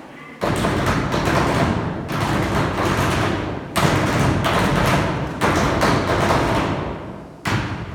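Group percussion act: many performers knocking and stomping out a fast rhythm together. The rhythm comes in phrases, breaking off briefly twice.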